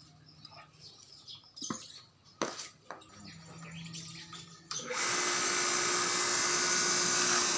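A few clicks and knocks, then a grass cutting machine's motor starts suddenly about five seconds in and runs steadily with a whine and hiss as it is test-run after repair.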